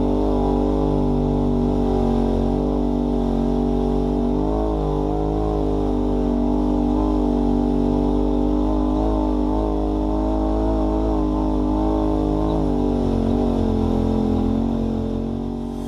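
Off-road vehicle engine running steadily, its pitch rising and falling slightly.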